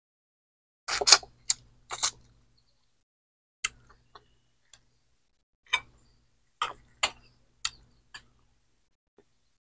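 Close-up eating sounds of a person chewing a mouthful of fried dried fish and rice: a string of short, sharp crunches and mouth clicks at uneven intervals, the loudest cluster about a second in.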